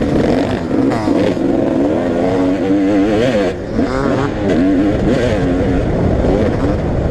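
Several motocross bikes racing, their engines revving up and dropping back over and over, with a brief lull about three and a half seconds in.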